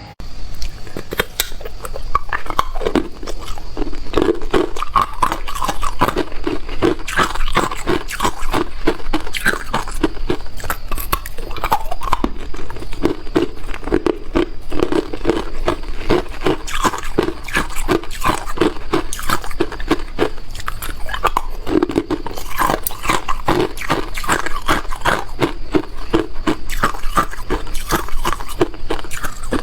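Ice being bitten and chewed, a continuous run of dense, sharp crunches and cracks with no pause.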